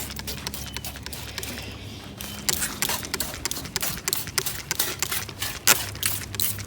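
Hand spray bottle of engine degreaser squirted in quick, repeated strokes, several a second, after a pause of about two seconds at the start.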